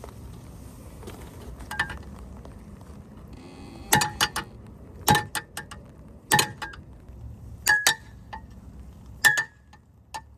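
A series of sharp metallic clinks, some in quick pairs, each ringing briefly, coming about a second or so apart over a low steady background.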